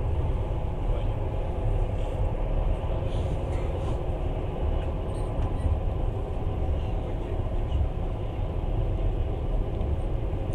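Passenger train running at speed, heard from inside the carriage: a steady low rumble of wheels and running gear on the rails, with a lighter hiss above it.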